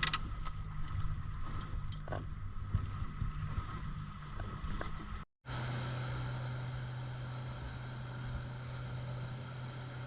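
Fishing boat's engine running steadily, with a brief dropout about five seconds in, after which the hum goes on at a slightly different pitch.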